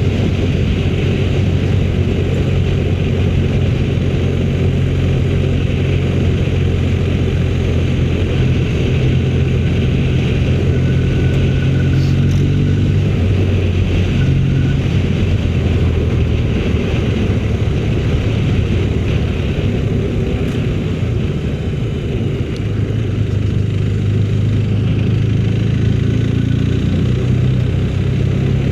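Motorcycle engine running under way, its low note stepping and shifting a few times as the speed changes.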